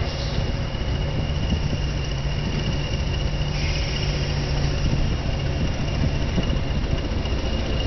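Heavy diesel locomotive engine running steadily at low revs, a deep hum with a steady high whine over it. A short hiss comes about three and a half seconds in.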